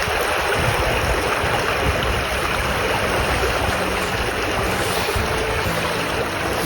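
Steady rush of flowing stream water, an even wash of noise with no breaks.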